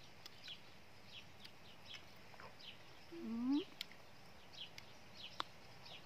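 Small birds chirping in the background, with one short rising call about three seconds in and a couple of sharp clicks afterwards.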